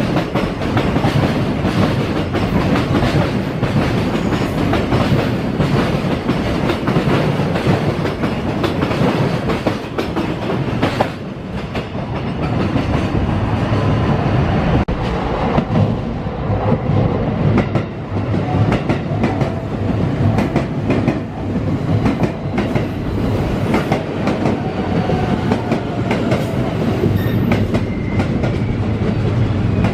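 A freight train's wagons rolling past at speed, the wheels clattering steadily over the rail joints.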